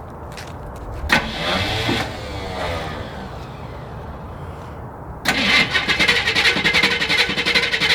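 Starter motor cranking the 1973 Camaro's Chevy 350 V8 on a cold start after years of sitting: a short crank about a second in, then a longer, louder crank from about five seconds in, with the engine not yet running.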